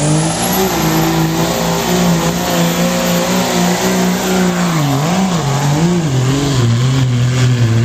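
Modified diesel pickup truck running flat out under load on a pull, with a high turbocharger whistle that climbs in pitch over the first second and then holds. The engine note wavers up and down a few times past the middle.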